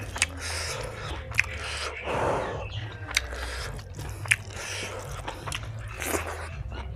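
Close-miked chewing of fried pork and rice, wet mouth sounds with a few sharp smacking clicks about a second apart.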